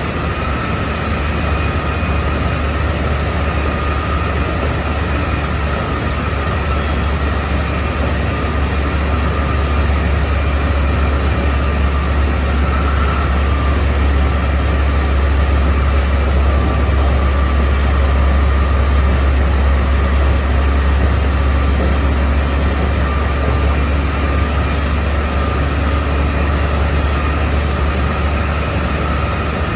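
Keikyu 600 series electric train driven by a Mitsubishi GTO VVVF inverter running at speed, heard from inside the car: a steady high-pitched motor whine over a loud low rumble of wheels on rail, growing slightly louder around the middle.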